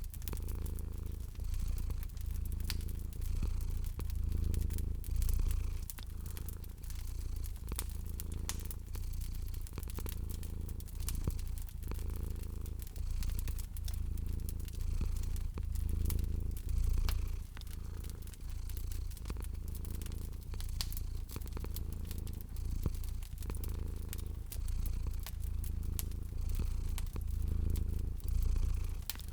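A cat purring, its low rumble swelling and fading with each breath about once a second, over the scattered snaps and pops of a crackling wood fire.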